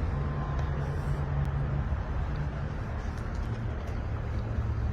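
Steady low engine hum with outdoor background noise.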